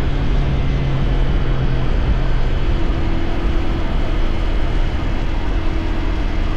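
Motorcycle engine, the CFMoto 450SR's parallel twin, running steadily while being ridden, over a steady rush of wind noise. Its note changes about two seconds in.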